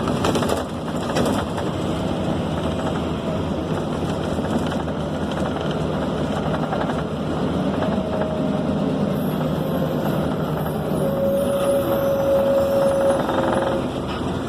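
A Scania K270 city bus heard from inside the cabin while under way: a steady diesel engine drone and road noise. In the second half a steady whine rings for a few seconds.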